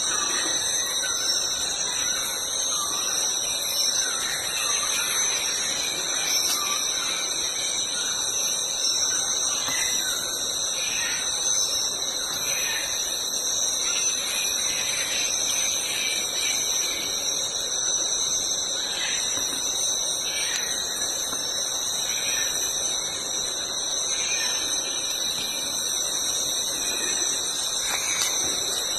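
Steady high-pitched drone of an insect chorus, crickets or cicadas, with faint short bird calls now and then.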